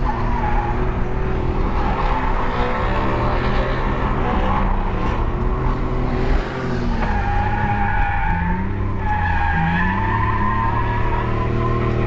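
BMW E46 330i's 3.0-litre inline-six revving up and down as the car drifts, with the rear tyres skidding and squealing. The squeal holds a wavering high tone in the second half.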